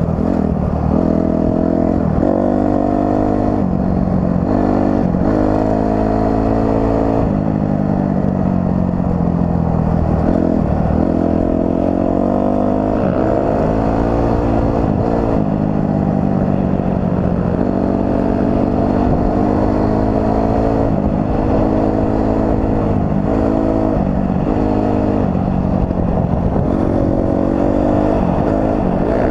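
Dirt bike engine being ridden on a trail, its pitch climbing and dropping repeatedly as the throttle is opened and rolled off, over a steady low rumble.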